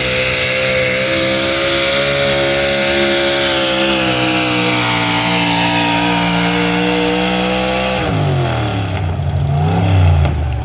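Pulling truck's engine running hard at high revs under load, the pitch sagging slowly as it pulls. About eight seconds in the revs fall away quickly, with one short rev-up and drop near the end.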